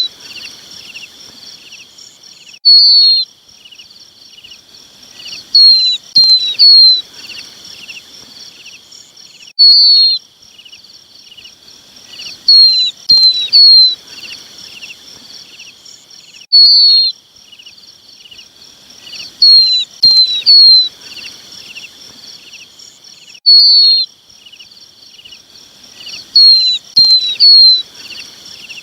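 Lapwing chick calling for its parents: short, high, down-slurred calls, one on its own, then a quick run of three, repeating about every three and a half seconds. A steady faint high hiss runs underneath.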